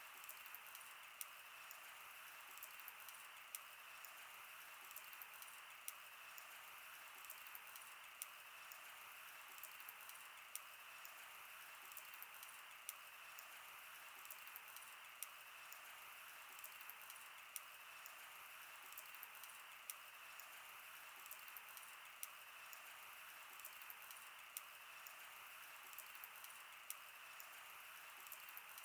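Wood campfire crackling: irregular small sharp pops, a few each second, over a steady faint hiss.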